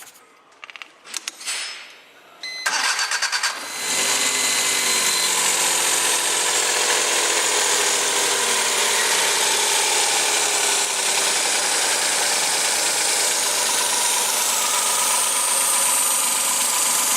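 Suzuki K6A 660 cc three-cylinder engine being started: a few clicks, a starter cranking for about a second, then the engine catches and runs. Its speed eases down over the next few seconds into a steady idle.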